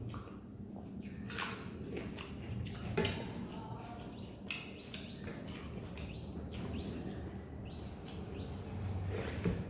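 Eating sounds: soft chewing and scattered light clicks of hand, food and plate, with a few faint bird chirps in the background.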